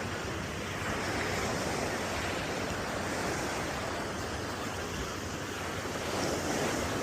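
Steady wash of ocean surf on the beach, with wind noise on the microphone. It swells slightly about a second in and again near the end.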